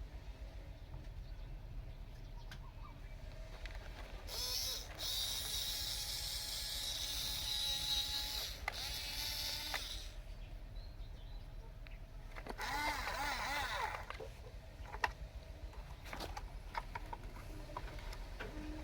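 Small electric drive motors and gearing of a toy RC bulldozer whirring in two runs, a long one from about four seconds in to ten seconds and a short one around thirteen seconds, over a steady low rumble.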